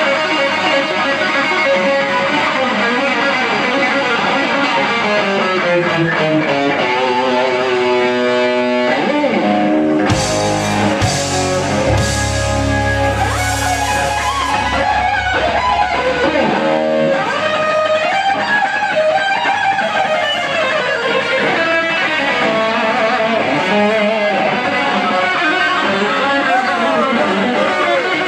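Live rock band playing, led by a fast electric guitar lead. From about ten seconds in, a heavy low end and hissing highs join for about six seconds, then drop out while the guitar carries on.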